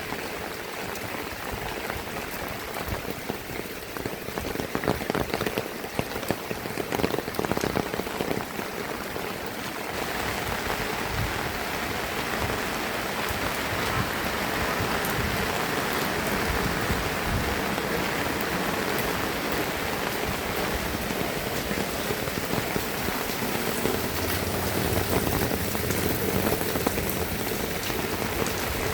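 Heavy rain falling, with many close, sharp drop impacts; about ten seconds in it turns into a denser, steadier hiss.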